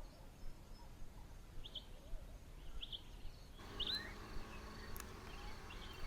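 Faint bush ambience with short, high bird chirps repeating about once a second. About halfway through the background changes and a faint steady hum comes in.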